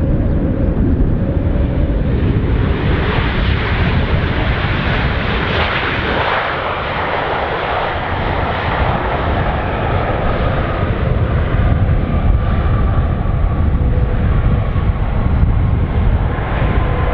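Jet airliner engines running close by, a broad roar that swells for several seconds and then eases, with a steady whine that slowly falls in pitch over a continuous low rumble.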